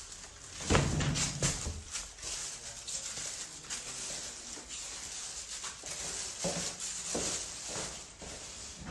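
Footsteps in nylon shoe covers, scratching and rustling over the floor with each step. The heaviest steps come about a second in and again near the end.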